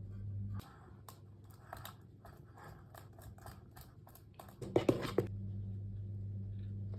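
Light clicks and scrapes of kitchen handling, a few a second, then a brief louder clatter about five seconds in. A low steady hum cuts out early and comes back with the clatter.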